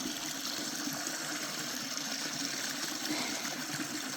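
Creek water rushing steadily, running muddy with runoff.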